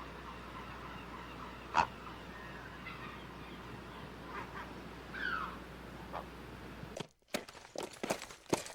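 A few short bird calls over a steady low hum, the loudest a sharp call about two seconds in and a falling call just past five seconds. About seven seconds in, the sound cuts to a quick, irregular series of sharp knocks.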